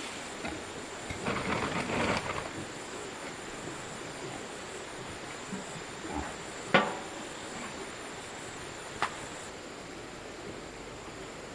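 Handling and rustling noise, then one sharp knock with a brief ring about seven seconds in and a lighter click about two seconds later, over a faint steady high hiss.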